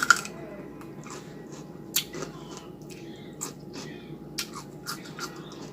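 A person chewing hot chicken wings close to the microphone, with scattered sharp mouth clicks and smacks.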